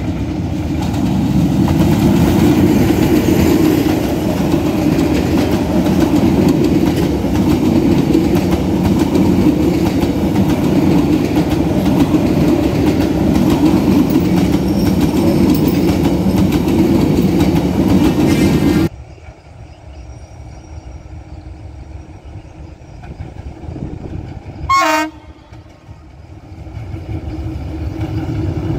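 Passenger train carriages passing close by: a loud steady rumble with wheel clatter on the rails, cut off suddenly about 19 s in. After that a quieter train sound, with a short horn blast about 25 s in and the train growing louder near the end.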